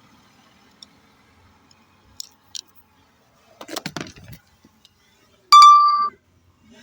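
A few small clicks and a brief rustle of handling, then a single loud, steady electronic beep lasting about half a second.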